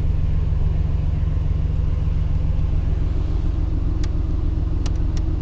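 Mercedes-AMG GT R Pro's 4.0-litre twin-turbo V8 idling steadily, with a few light clicks in the last second and a half.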